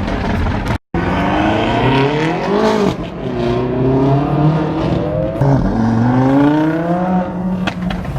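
Car engines revving and accelerating, their pitch rising again and again over a steady low engine note. The sound drops out for a split second just under a second in.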